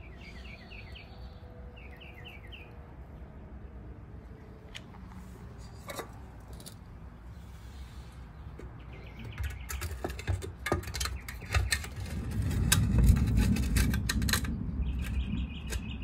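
A small bird chirps in quick short series near the start and about two seconds in, then gives a trill near the end. In between comes a run of clicks and metal knocks from the grill's metal bowl being handled, with a low rumble that is the loudest part.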